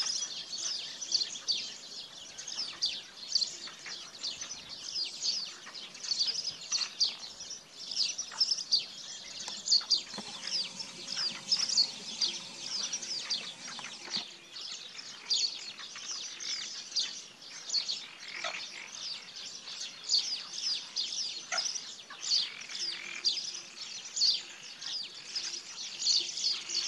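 Many small birds chirping and singing at once: a dense, continuous chorus of short, high chirps and trills.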